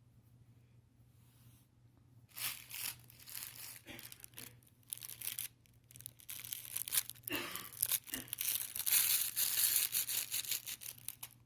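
Skirt fabric rustling and scraping in irregular bursts close to the microphone as teething puppies tug and chew at it. It starts about two seconds in and is busiest near the end.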